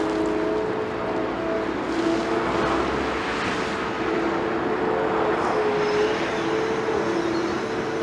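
Liebherr 946 excavator working: steady diesel engine noise with a whine that shifts between two pitches as the hydraulics take load.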